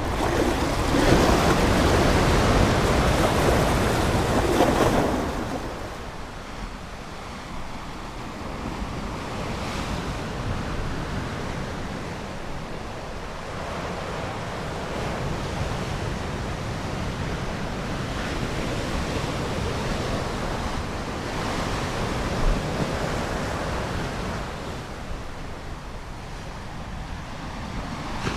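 Ocean surf: a wave breaks and washes in loudly about a second in and subsides after about five seconds, then smaller waves keep rolling and washing in more quietly, swelling now and then.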